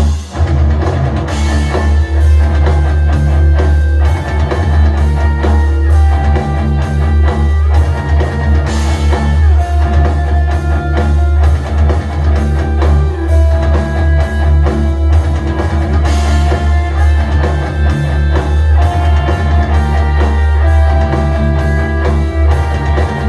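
Rock music with guitar and a drum kit, with heavy, constant bass, played back through an Anker Soundcore portable Bluetooth speaker as a sound test.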